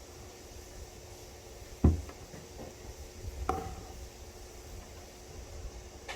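Two knocks on a hard surface: a sharp one about two seconds in and a softer one with a brief ring a second and a half later, over faint low handling noise.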